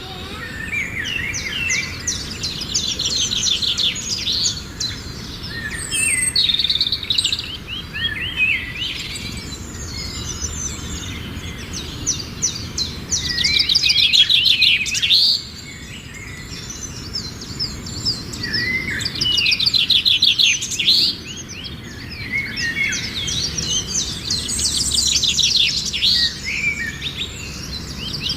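Songbirds singing: repeated phrases of rapid trills and quick chirps, one bird's song overlapping another's, over a faint steady outdoor background.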